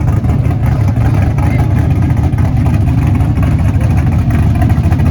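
A vehicle engine running with a loud, steady, deep rumble, most likely the truck being presented for an award.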